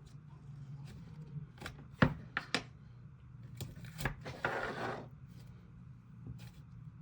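Plastic slime container and lid being handled and opened: scattered sharp clicks and taps, the loudest about two seconds in, and a short rustling scrape a little after the middle.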